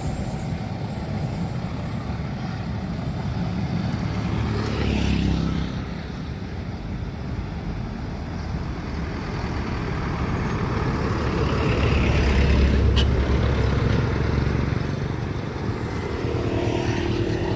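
Road vehicles driving past one after another: low engine and tyre rumble that swells and fades with each pass, loudest about twelve seconds in.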